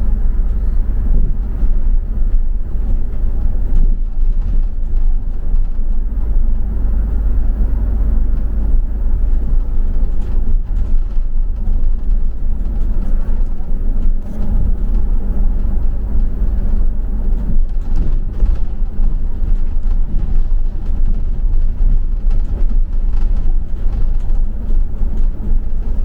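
Steady low rumble of a double-decker bus on the move, heard from on board: engine and road noise.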